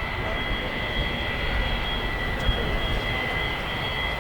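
Boeing 787-9 Dreamliner's Rolls-Royce Trent 1000 turbofans running steadily in flight: a low rumble with a steady high-pitched whine over it.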